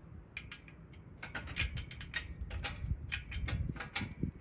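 A run of irregular sharp clicks and ticks, several a second, over a steady low rumble of wind on the microphone.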